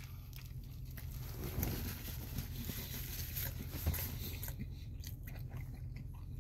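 A person biting into a burger and chewing the mouthful: quiet, soft chewing and mouth sounds with a few small clicks.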